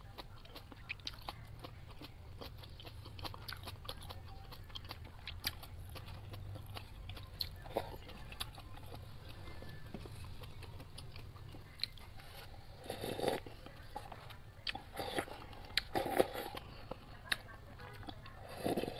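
Close-miked chewing of instant cup ramen noodles, with many small wet mouth clicks. A few louder mouth sounds come in the second half, the last as broth is sipped from the paper cup near the end.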